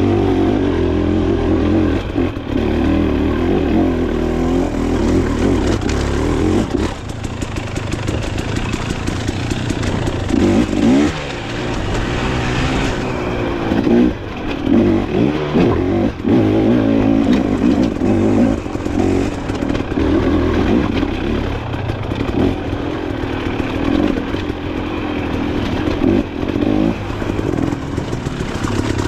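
Dirt bike engine running hard on a trail, its pitch rising and falling again and again as the throttle is opened and closed, easing off for a few seconds about a quarter of the way in.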